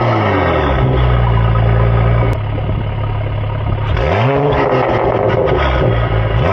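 2022 Mercedes-AMG E53's inline-six, fitted with a catless downpipe and Red Star exhaust, being blipped while stationary. The revs drop back to idle at the start, one throttle blip rises and falls about four seconds in, and another begins at the end.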